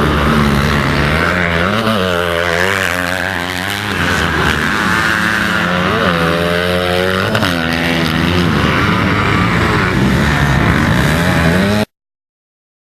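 Motocross bike engines racing, revving up and falling back again and again as the riders work the throttle and shift through the gears. The sound cuts off suddenly near the end.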